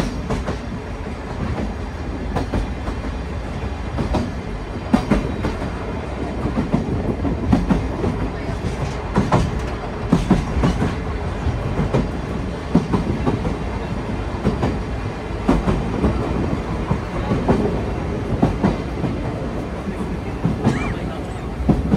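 Sagano Romantic Train rolling along the line, heard from inside its open-air car: a steady rumble of wheels on rail, broken by frequent irregular clunks and rattles from the carriage.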